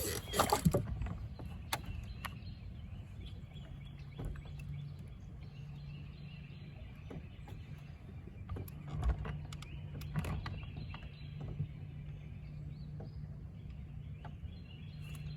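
A small motor on a fishing boat humming steadily, with a few knocks and clicks of handling gear; the knocks are loudest at the very start.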